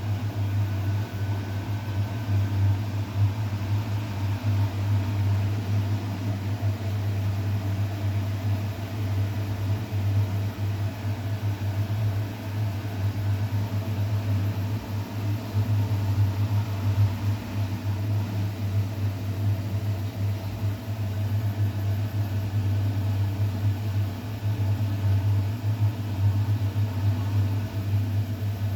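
Bosch WGA 2520TR washing machine running its intermediate spin after the prewash: a steady low hum.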